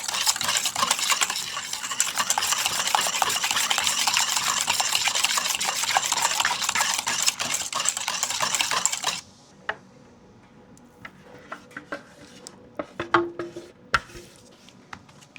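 Batter being stirred briskly in a mixing bowl: a dense, continuous scraping clatter that stops abruptly about nine seconds in. Afterwards come a few light taps and clinks of utensils and dishes.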